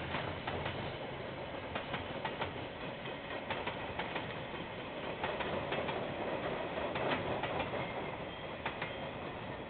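A train's wagons rolling past, heard through a security camera's microphone: a steady rumble of wheels on rail with irregular sharp clicks, slowly fading near the end.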